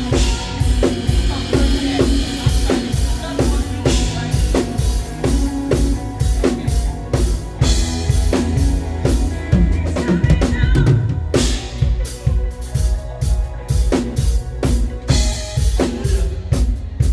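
Live band playing with a drum kit to the fore: a steady groove of bass drum, snare and rimshots over a bass line, with no singing.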